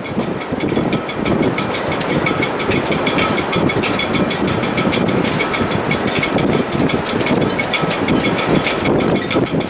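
Wind blowing hard through a sailboat's shrouds and rigging in heavy weather: a steady loud rush with rapid, even clicking and faint whistling tones.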